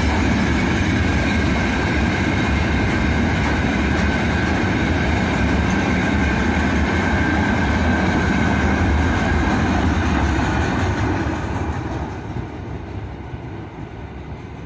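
Freight train's open gondola wagons rolling past at speed: a steady rumble of steel wheels on the rails with a faint high ringing tone. About eleven seconds in, the tail of the train goes by and the sound falls away.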